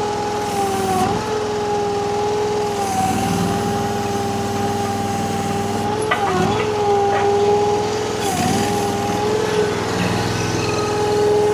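Mini skid steer's gasoline Honda GX690 engine and hydraulics running with a steady high whine, the pitch dipping briefly four times as the hydraulics take the load of lifting a pallet of concrete blocks. A few light clicks come about halfway through.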